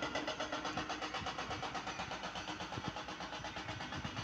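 Ashok Leyland tipper truck's diesel engine running steadily with an even pulsing beat, about six or seven a second.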